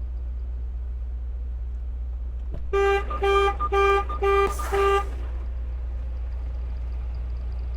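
A vehicle horn giving five quick, evenly spaced short toots, heard over a steady low hum.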